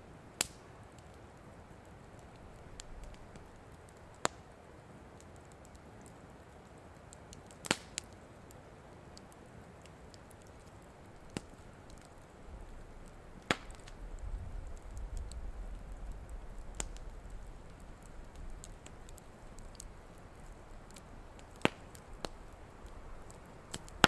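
Wood campfire burning with a soft hiss and sharp, single pops of burning wood every few seconds. A low rumble comes in about halfway through.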